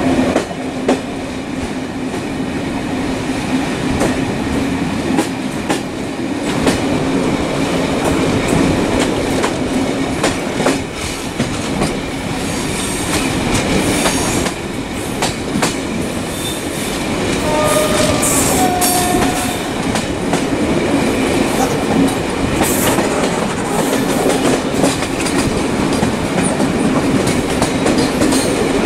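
Steady mechanical rumble with a low hum and frequent clicks and knocks, with a few brief squealing tones about two-thirds of the way through.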